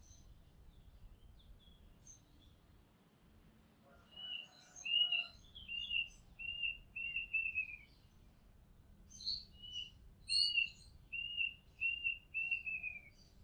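Oriental magpie robin singing: after a few faint chirps, two phrases of clear whistled notes repeated about two a second, each note slurring slightly down, beginning about four seconds in and again after a short pause.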